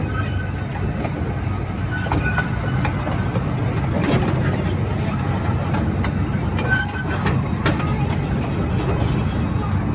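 Zoo train running along its track: a steady low rumble with scattered clicks and a few brief, faint squeaks.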